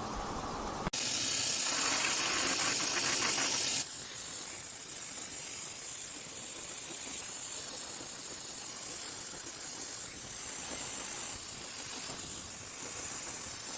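A steady hissing noise that starts abruptly about a second in, louder for the first few seconds and then a little softer.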